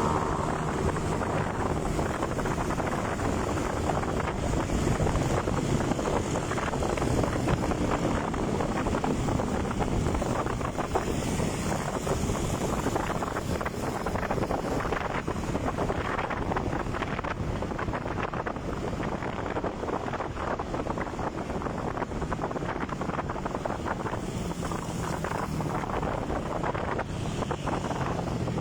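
Wind buffeting the microphone over the steady running of a motorcycle on the move.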